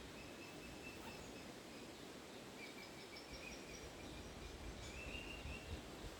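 Faint bird calls: three runs of short, high, quickly repeated notes, over a steady low rumble.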